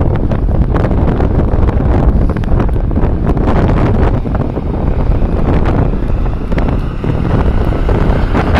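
Loud, gusty wind buffeting the microphone, a dense rumble with no clear engine note standing out.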